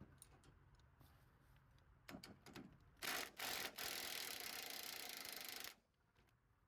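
Impact wrench on an exhaust hanger bolt: two short bursts, then a steady run of about two seconds that stops abruptly, after a few faint clicks of hand tools.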